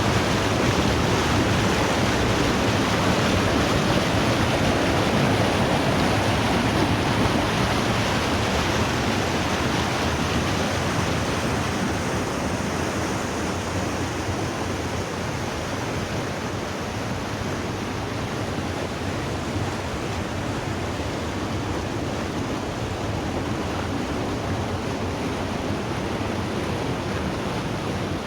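Steady rush of the Putna river's water, easing slightly about ten seconds in.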